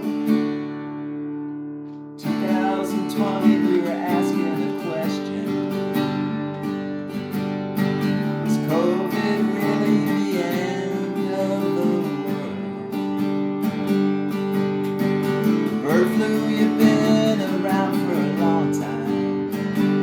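Acoustic guitar playing a blues intro: a chord rings and fades, then steady strummed and picked playing starts about two seconds in.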